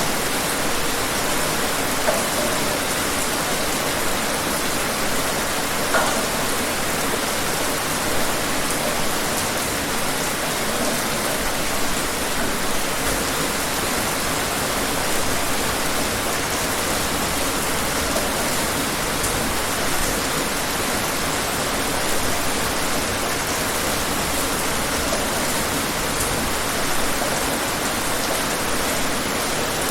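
Steady rain falling, an even hiss of many drops with an occasional louder drip standing out.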